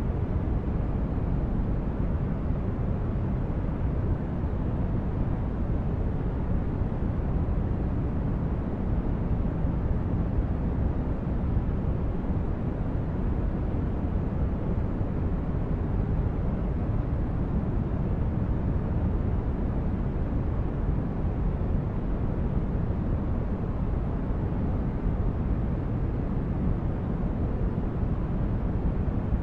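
Steady, deep rushing noise, weighted to the low end like brown noise, with no change throughout.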